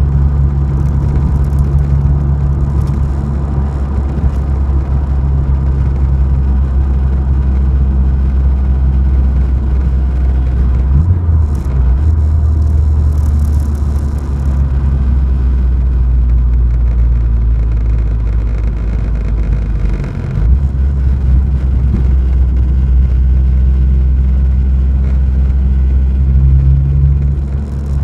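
Ford Escort RS Turbo's 1.6 CVH turbocharged engine droning at a steady motorway cruise, with road rumble; the engine is new and still being run in, so it is driven gently. The drone briefly breaks about 11 seconds in and again about 20 seconds in.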